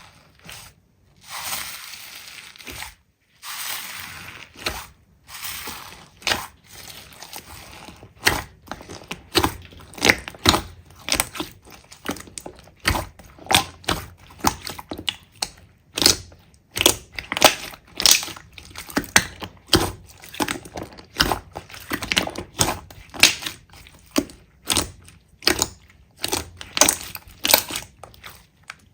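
Slime being squeezed and pressed by hand, with a soft hiss at first and then a steady run of sharp crackling pops, about two a second.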